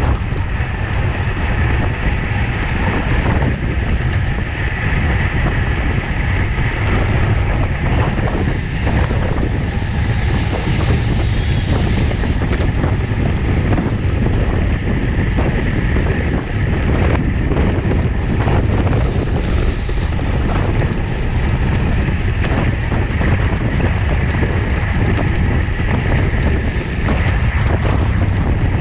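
Steady wind rushing over the microphone of a camera on a racing road bike at speed, a constant low rumble.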